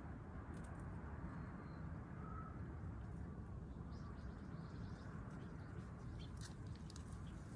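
A few faint, brief bird chirps over steady low background noise, with small scattered clicks in the last second or so.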